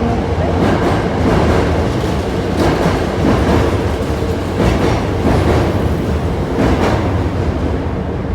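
Hankyu 6000 series electric train running, heard from inside the car: steady rolling rumble with the wheels clicking over rail joints in pairs about every two seconds.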